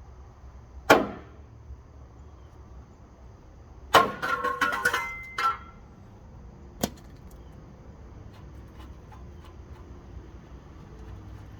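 Metal parts clanking in a welding shop: a sharp ringing strike about a second in, a rattling clatter of ringing metal around four to five and a half seconds, and a single knock near seven seconds, over a low steady hum.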